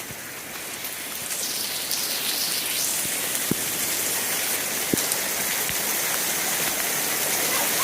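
Torrential rain pouring down with a steady hiss of water, growing louder about a second in.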